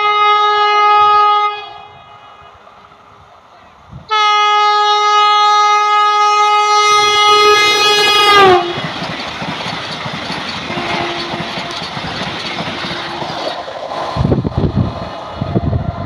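Vande Bharat Express horn sounding a blast that ends about a second and a half in, then a second long blast whose pitch drops as the train passes at speed. The rush of the passing train follows, and low gusty thumps come near the end.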